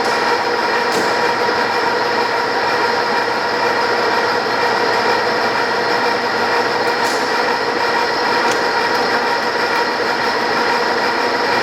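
Mazak 34 x 240 inch engine lathe running at low spindle speed: a steady mechanical run with a whine of several steady tones from the headstock gearing, and a few faint ticks.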